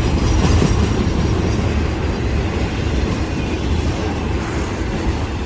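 Loaded autorack freight cars rolling past, a steady rumble and clatter of steel wheels on the rails.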